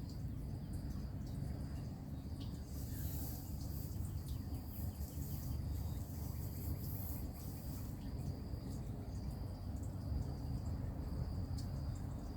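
Outdoor ambience: a steady high-pitched insect trill, typical of crickets, over a constant low rumble, with a few faint chirps.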